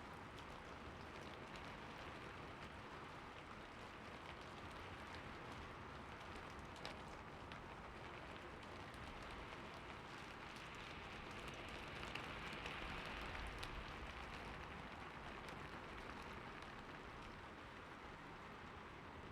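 Steady rain falling: an even, soft hiss of drops with a few separate drop ticks. It swells a little past the middle.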